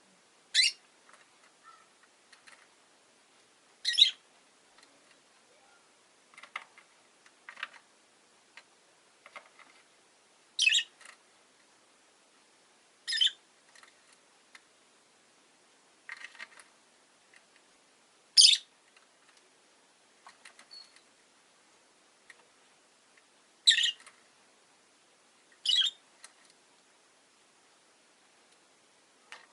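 Rosy-faced lovebirds giving short, sharp, high-pitched chirps, one loud call every two to five seconds. Softer chirps and small clicks come in between.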